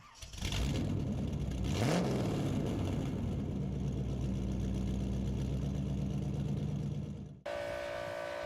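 Car engine blipped once about two seconds in, the pitch rising and falling back, then running steadily. About seven and a half seconds in it cuts off abruptly and a different steady engine hum takes over.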